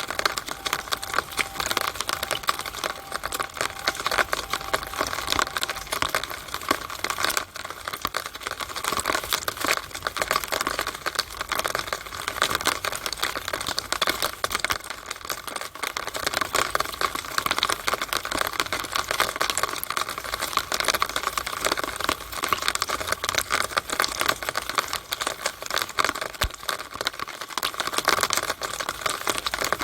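Rainwater running down a downspout (rain gutter drainpipe), a dense, steady patter of drops and trickling water.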